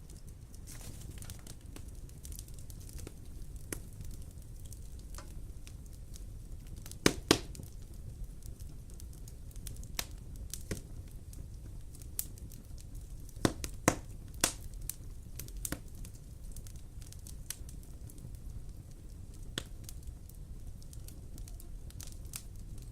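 Wood fire burning in a fireplace: irregular crackles and sharp pops over a low steady rumble, with the loudest pops about seven seconds in and again around fourteen seconds.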